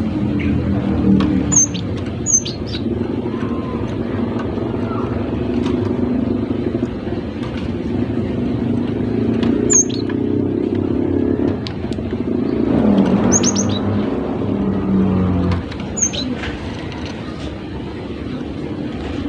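A cinereous tit (gelatik batu) gives short, sharp high chirps in a few scattered groups, over a steady low vehicle rumble that is the loudest sound throughout.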